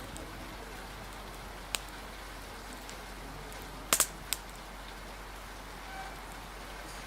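Steady rain hiss with a wood fire crackling, giving a few sharp pops: one just under two seconds in, and a louder close pair followed by a single pop about four seconds in.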